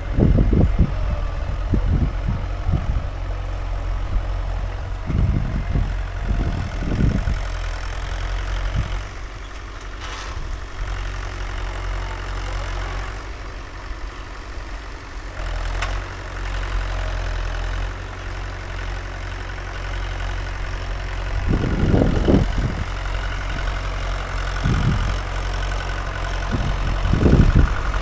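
Mahindra 575 DI tractor's four-cylinder diesel engine running steadily while pulling a 9-tine cultivator, with several short louder low surges.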